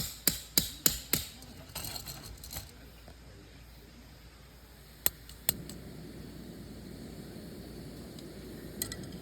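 A quick run of sharp clicks or taps, about three a second, then scattered single clicks over a low steady hiss.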